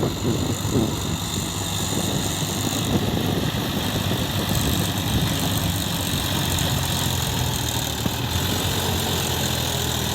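Heavy diesel engine of working machinery running steadily at low revs, a continuous drone.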